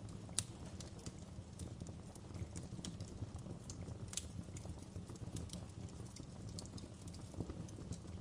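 Wood fire crackling in a fireplace: irregular sharp pops and snaps, the loudest about half a second in, over a steady low rumble of the burning fire.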